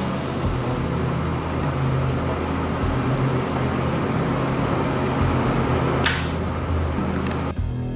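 Steady mechanical noise from a running machine or power tool, with a low hum under a broad rushing sound. A short sharp hiss comes about six seconds in, and the noise cuts off suddenly near the end.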